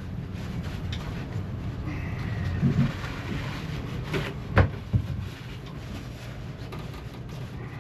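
Hand work at a marine diesel's cooling system: scattered knocks and clicks over a steady low hum, with one sharp knock about four and a half seconds in.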